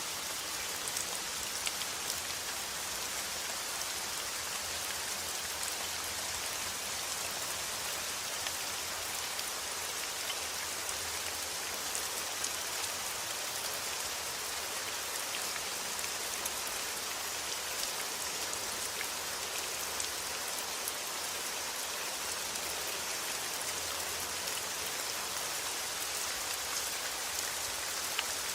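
Steady rain falling, an even hiss sprinkled with the ticks of individual drops.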